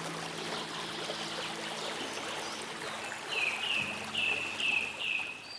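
Water trickling and running steadily, with a bird calling about five times in quick succession in the second half, each short call dipping slightly in pitch. Low, held background-music notes sound underneath.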